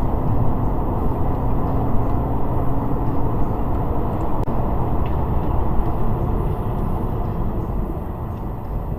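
Steady rumble of road and wind noise from a car driving at speed.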